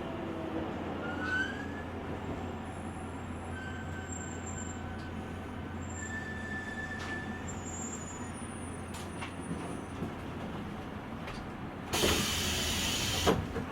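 Interior running sound of an electric limited-express train, heard from the vestibule deck: a steady low hum and rolling noise with faint brief squeals and clicks. About twelve seconds in, a loud hiss of air lasts just over a second.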